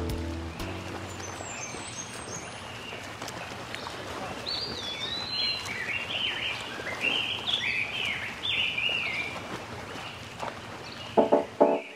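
Outdoor ambience with a small bird singing a run of quick chirping phrases in the middle. Background music fades out at the start, and new music comes in near the end.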